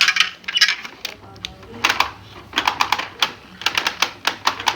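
Rapid clicking and clattering of hard plastic toy-set pieces being handled and fitted together, in quick clusters, with music playing underneath.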